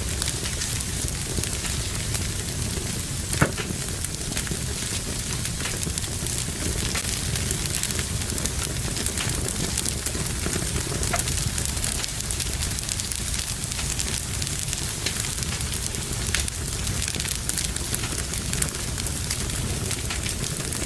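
Fire in a fireplace crackling steadily over a low hiss, with many small snaps and one sharp pop about three and a half seconds in.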